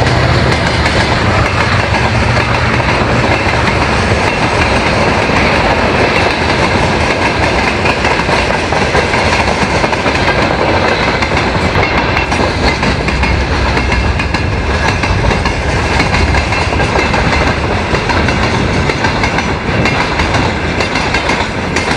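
Loaded freight train rolling past over a level crossing: the wagons' wheels clatter steadily over the rail joints and crossing, a loud continuous rumble with many small clicks.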